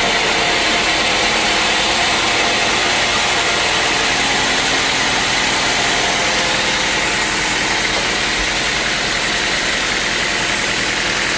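Sawmill machinery running steadily: a loud, continuous, even engine-and-saw noise with no breaks.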